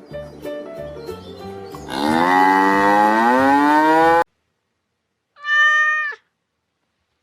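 A cow mooing, one long call that rises in pitch and cuts off suddenly, over background music. A couple of seconds later, a cat gives one short meow.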